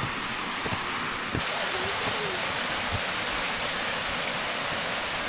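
Rushing water of a mountain stream, a steady hiss that jumps louder about one and a half seconds in.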